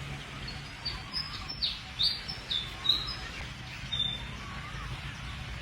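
Birds chirping: a quick run of short, high chirps through the middle, with a fainter rising-and-falling call repeating about every second and a half, over a steady outdoor hiss.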